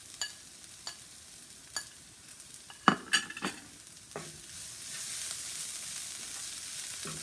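Utensil knocking and scraping in a frying pan as onion and spices are stirred, with a cluster of sharp knocks about three seconds in. The frying sizzle grows louder from about halfway through, as curry leaves go into the hot pan.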